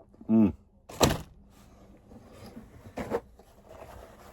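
A man's short vocal sound falling in pitch, then a sharp knock about a second in and a softer one near three seconds.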